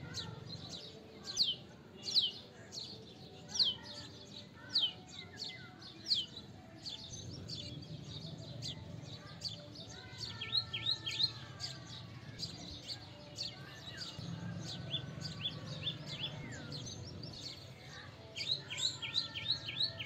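Several songbirds calling at once. First comes a run of sharp, down-slurred whistles, about one every three-quarters of a second for the first six seconds. Then come bursts of quick, high chipping notes about ten seconds in, again around fifteen seconds, and near the end.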